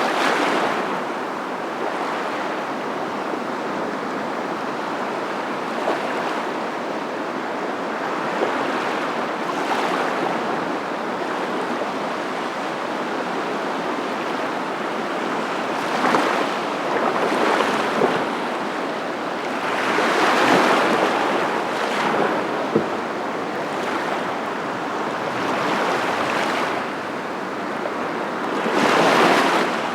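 Ocean surf: a steady wash of waves, swelling every few seconds as waves break.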